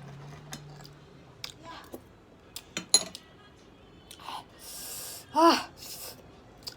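Close-miked eating of jajangmyeon noodles: scattered small clicks and mouth noises, a brief hiss about four and a half seconds in, then a short loud hummed 'mm' about five and a half seconds in.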